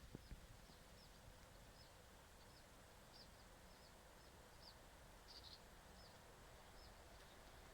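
Near silence with a faint bird chirping over and over, short high chirps at about two to three a second.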